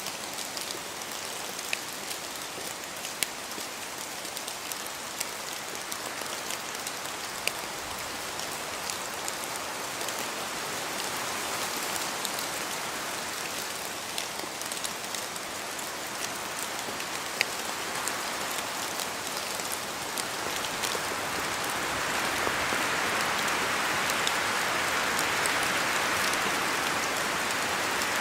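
Steady rain falling in a forest, a dense hiss with many separate drops ticking sharply on the surfaces around. About three-quarters of the way through the rush swells and grows louder.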